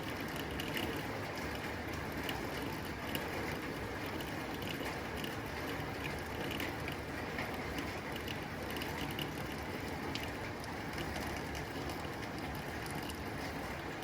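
Steady rain on a tin roof: a dense, even patter of drops ticking on the metal sheeting.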